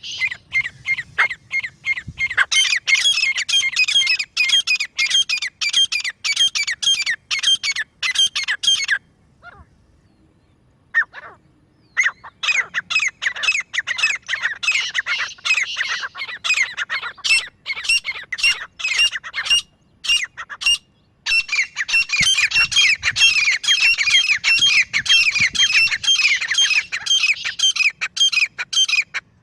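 Grey francolin calling: long runs of rapid, shrill repeated notes, several a second. The runs break off for a pause about nine seconds in and briefly again about twenty seconds in.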